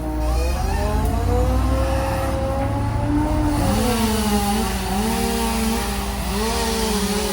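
Several engines running at once, their pitch rising and falling as they speed up and slow down.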